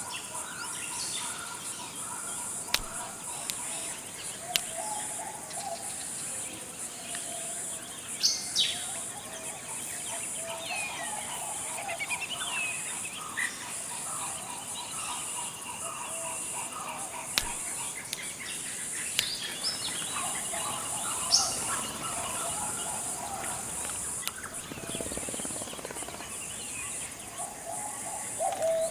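Tropical forest ambience: a steady high-pitched insect drone, with assorted bird calls over it. The calls include short chirps, rising and falling whistles, and lower calls that come and go.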